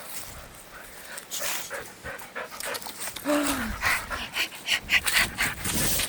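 Dog panting in quick, rhythmic breaths that grow louder about halfway through, with one brief low falling sound about three seconds in.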